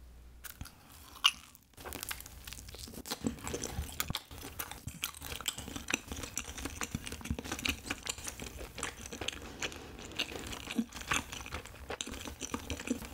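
Close-up chewing of a cheese rice cake (tteok) pan-grilled in perilla oil: sticky mouth sounds with many small clicks throughout.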